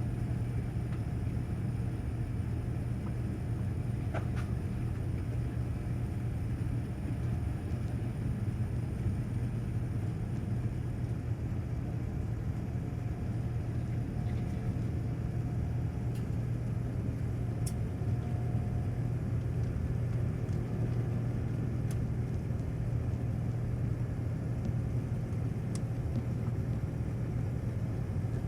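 Steady cabin noise of a Boeing 787-9 climbing out after takeoff: an even, low rumble of engines and airflow, with a few faint ticks.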